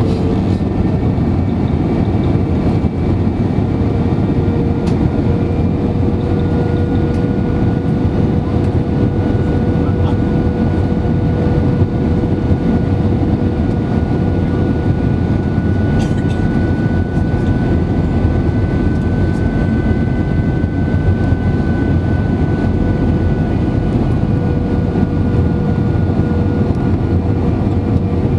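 Airbus A320-200 cabin noise on approach: the steady roar of the engines and airflow, with a constant hum running through it.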